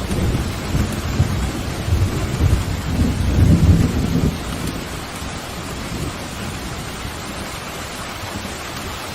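Thunder rumbling over steady pouring rain. The low rumble swells over the first few seconds, peaks about four seconds in, then dies away, leaving the even hiss of rain.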